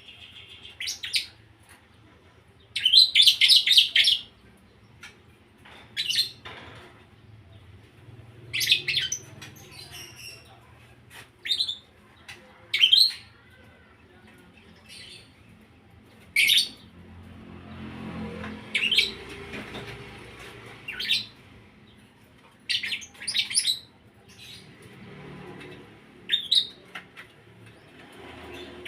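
Lovebird calling in short, sharp, high chirps and trills, spaced a second or two apart with some quick runs, in song learned from ciblek and prenjak birds. A soft rustle comes in under the calls about two-thirds of the way through.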